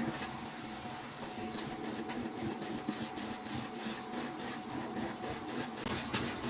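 Vacuum cleaner running steadily as its nozzle is worked along the stair carpet, with a few light knocks.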